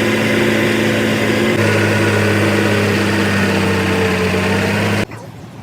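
Bulldozer's diesel engine running at a steady speed, its pitch stepping down slightly about a second and a half in; the sound cuts off abruptly about five seconds in.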